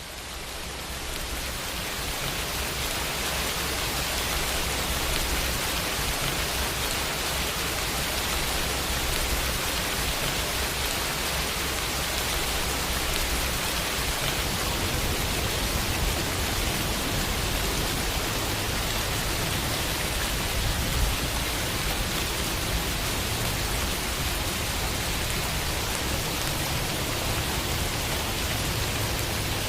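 Summer rain falling steadily on a window, an even hiss that fades in over the first couple of seconds and then holds steady.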